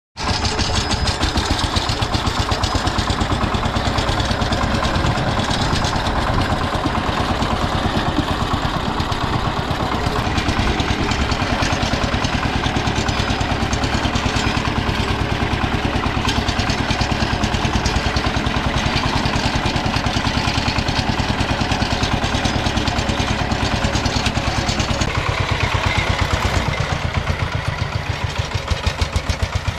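Diesel engine of a Kentavr walk-behind tractor running steadily with an even, fast pulsing beat.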